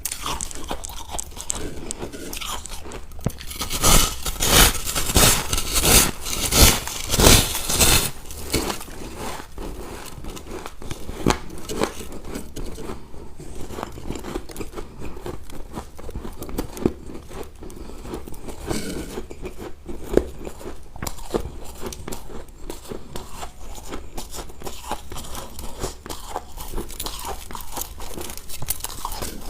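Ice being bitten and chewed close to the microphone: a run of loud, sharp crunches about four seconds in, then steady, quieter crunching and crackling as the pieces are chewed.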